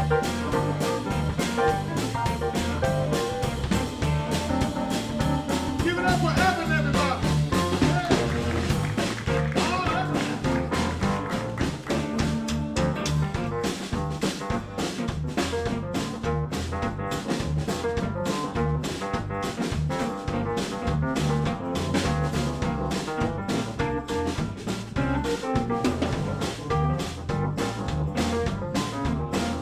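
Live blues band playing an instrumental passage on electric guitar, keyboards, bass guitar and drums, over a steady drum beat; a lead line bends in pitch about six to ten seconds in.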